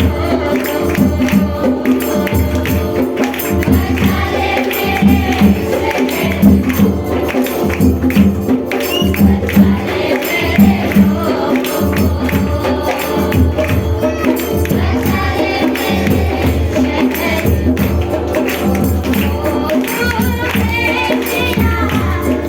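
Worship music: a group singing a devotional song to a steady, driving tambourine beat.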